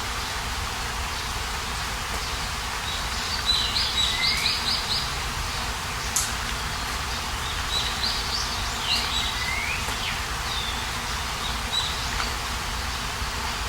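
Birds singing and calling: short rising chirps and quick trills, repeated every few seconds, over a steady outdoor background hiss.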